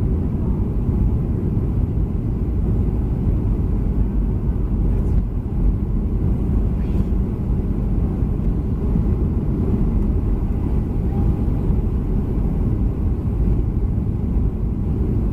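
Steady low rumble of cabin noise inside a Boeing 737-300 airliner, from its engines and airframe.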